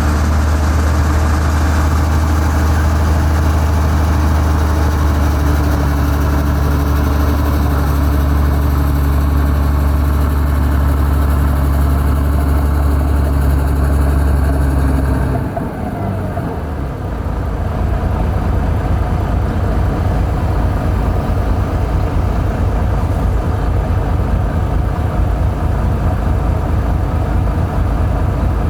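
Heavy diesel engine of earthmoving equipment running with a steady low drone. About halfway through the drone drops away suddenly, and a lower, evenly pulsing engine note follows.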